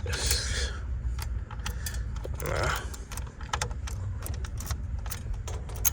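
A bunch of keys jangling, with many small sharp clicks, as a key is worked into a 1936 Oldsmobile's ignition.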